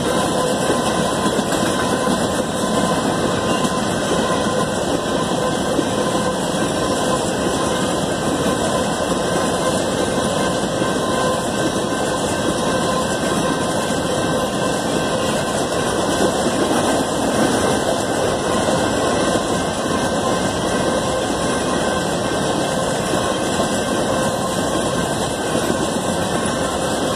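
Covered hopper cars of a BNSF grain train rolling past steadily: the continuous noise of steel wheels running on the rails, with faint steady tones above it.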